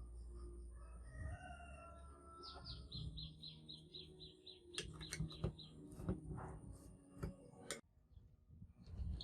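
Faint bird calls: a few gliding calls, then a quick run of high chirps at about four a second, followed by several light clicks and taps.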